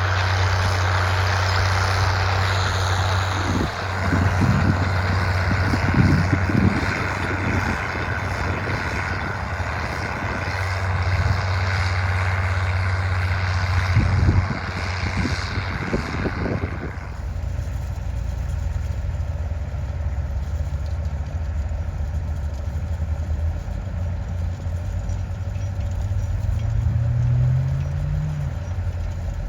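Crawler tractor's diesel engine running steadily, with a loud hissing rush and a few knocks over it for the first half. The rush cuts off suddenly, leaving the plainer engine hum, and a brief rising note near the end.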